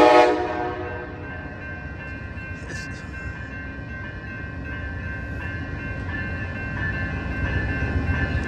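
A short, loud horn blast right at the start, then the steady low rumble of the stopped Amtrak train's diesel locomotives idling while it holds at a red signal.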